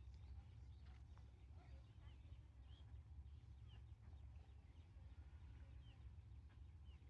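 Faint short bird chirps, roughly one a second, over a steady low hum; otherwise near silence.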